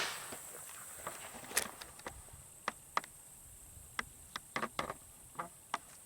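Steady high-pitched chorus of late-summer field insects, with about a dozen short, irregular soft clicks and taps scattered through it.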